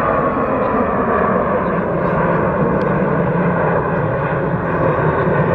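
Jet airliner engines at takeoff power, a loud, steady rumble and rush.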